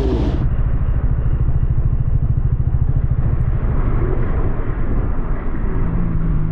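Motorcycle engine running at a steady pace, its rapid firing pulses heavy in the low end, sounding muffled.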